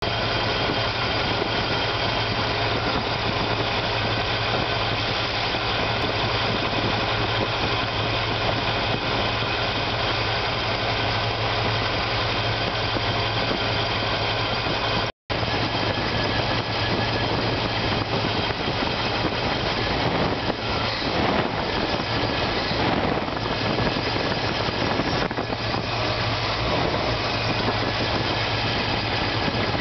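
Chevrolet 454 big-block V8 with a Holley carburetor idling steadily.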